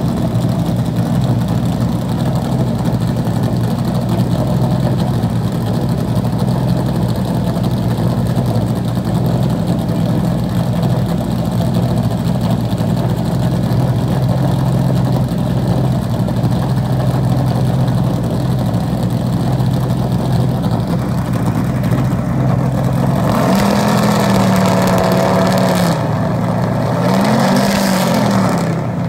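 NASCAR Cup car's pushrod V8 idling lumpily while it warms up. The engine is revved and held higher about three quarters of the way through, then given one quick rev-and-drop near the end.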